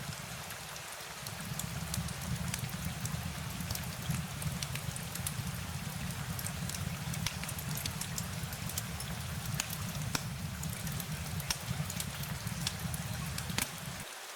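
Steady rain falling, with many scattered sharp drip ticks over a low, even rumble; the low rumble cuts out near the end.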